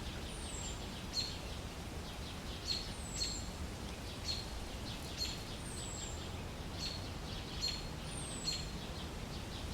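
Forest ambience with birds calling: short high chirps repeating about once a second and a thin falling whistle every couple of seconds, over a steady low background noise.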